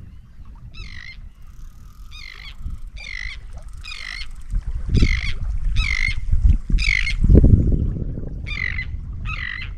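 A bird calling over and over, a short arched call about once a second, over a low rumbling noise that swells about seven seconds in.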